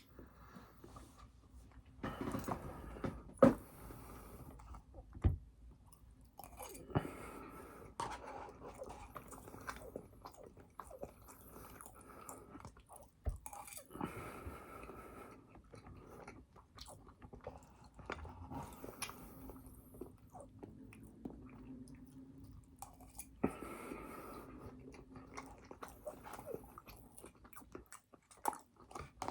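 Close-miked chewing and biting of burger and fries, with wet smacking and crunching and a few sharper clicks, the loudest a little after three seconds and at about five seconds.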